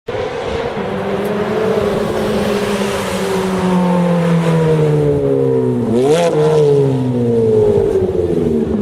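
Ferrari F430's V8 running through a Capristo aftermarket exhaust. The engine note holds steady, then slowly drops in pitch, with one quick, sharp rev blip about six seconds in.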